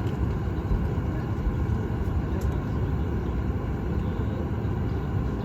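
Steady low cabin rumble inside a Boeing 737 MAX 8 on the ground before takeoff: the aircraft's engines and air conditioning heard through the cabin.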